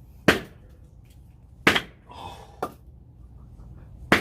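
Axe blows on a log of firewood being split: three heavy strikes about one and a half seconds apart, with a lighter knock between the last two. The log is hard and does not split.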